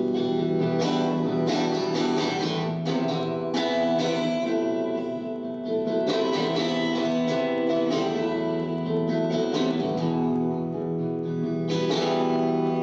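Guitar strumming chords in an instrumental passage between sung lines of a song.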